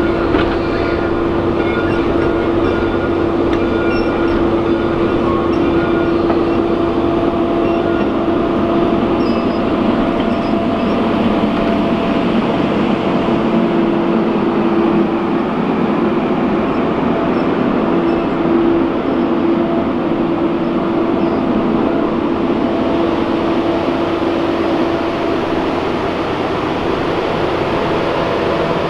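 Heritage steam railway train rolling along the track: a steady rumble with a constant hum running through it.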